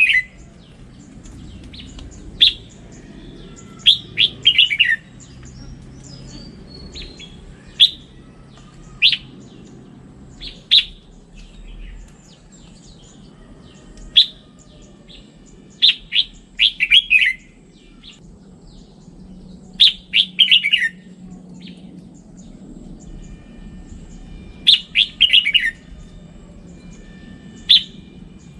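Red-whiskered bulbul singing: short, bright phrases of a few quick notes, often falling in pitch, repeated every two to three seconds over a faint low hum.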